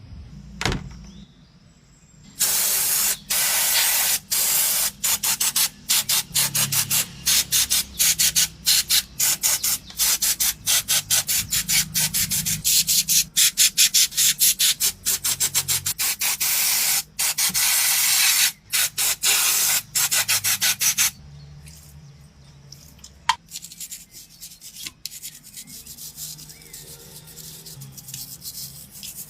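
Cleaning a motorcycle: a long run of loud hissing strokes broken by brief gaps for about twenty seconds, then quieter rubbing and scrubbing near the end.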